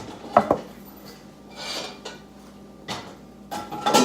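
Dishes and utensils being handled: a few separate knocks and clinks of kitchenware, with a louder cluster near the end.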